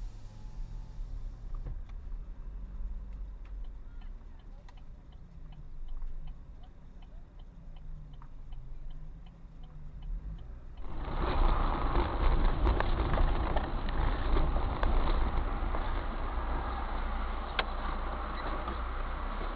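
Low engine and road rumble inside a car, with a faint steady ticking about two or three times a second. About eleven seconds in it switches abruptly to louder, steady road and wind noise.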